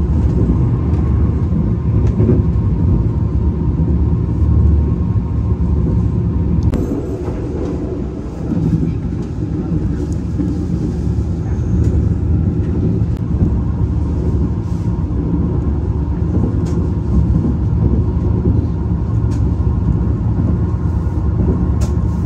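Steady rumble of a moving passenger train, with scattered short clicks and a brief dip in loudness about eight seconds in.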